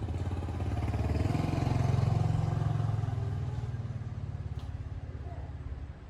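A small petrol engine swelling to a peak about two seconds in, then fading away.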